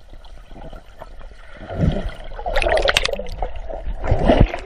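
Swimming-pool water splashing and gurgling, quieter at first, with louder splashes from about halfway through.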